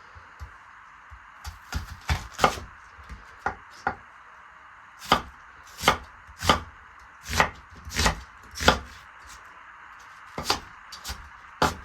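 Knife chopping on a cutting board: single sharp strokes at an irregular pace of roughly one or two a second, with a short pause near the end.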